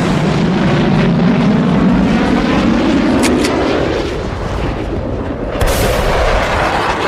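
Added sound effects of fighter-jet engine noise, with two sharp shots a little after three seconds in and a sudden blast of gunfire or an explosion about five and a half seconds in.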